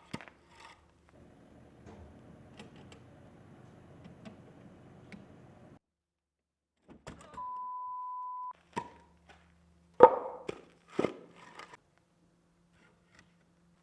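A steady beep lasting about a second, then two loud thunks about a second apart, each with a short ring, followed by a few smaller knocks.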